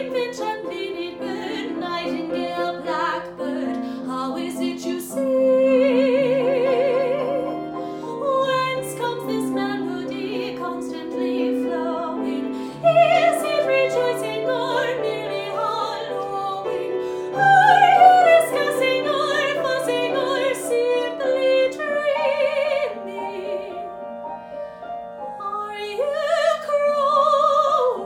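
Female classical-style voice singing with a wide vibrato over piano accompaniment.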